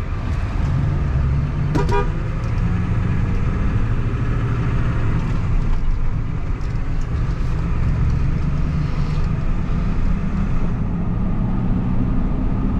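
Vehicle cabin noise while driving: a steady low engine and road rumble, with a brief higher-pitched beep about two seconds in.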